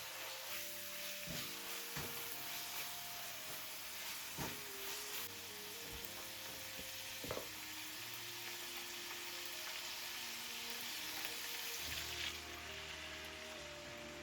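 Food sizzling as it fries in a pan, a steady hiss with a few light knocks.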